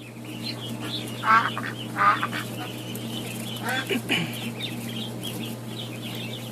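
Ducks quacking: several louder calls stand out among steady higher chirping, over a steady low hum.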